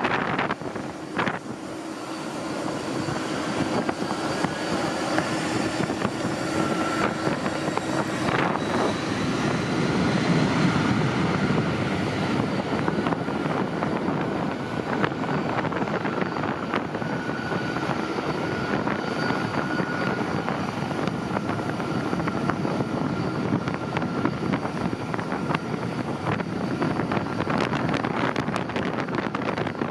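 Jet airliner engines running, a steady rush of noise with faint held tones above it.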